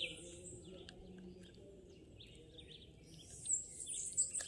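Birds chirping with many short calls and a high, thin trill over a faint outdoor background. The calls are busiest at the start and again from about three seconds in, sparser in between.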